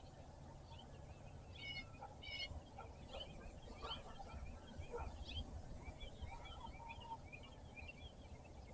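Songbirds chirping and singing in a steady dawn chorus, with two sharper calls about two seconds in, over a low steady background rumble.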